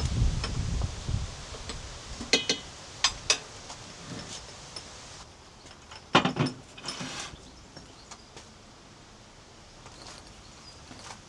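Low wind rumble on the microphone that fades about a second in, followed by a few scattered knocks and clatters.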